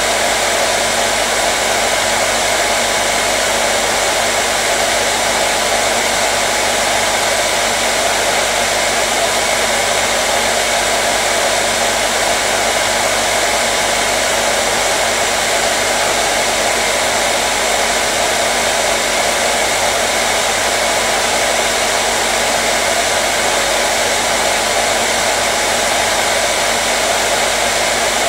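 Hair dryer blowing steadily with an even rushing hiss and a constant motor hum, no change in speed or pitch.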